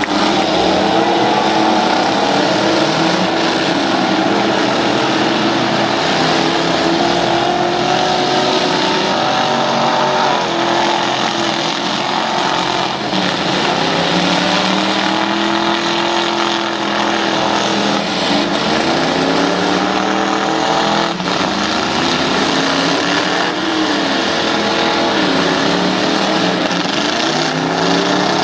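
Several truck and van engines revving up and down together during a demolition derby, with a couple of sharp bangs of the vehicles colliding.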